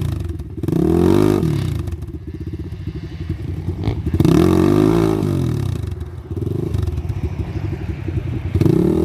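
Gas Gas EC200 two-stroke enduro motorcycle engine revving up and dropping back repeatedly, with swells about a second in, around four to five seconds in, and near the end.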